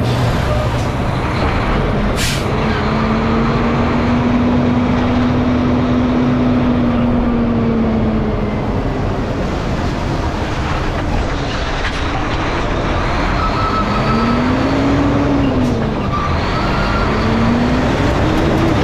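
Volvo semi truck running loud and steady, its engine pitch slowly rising and falling. A short sharp hiss comes about two seconds in.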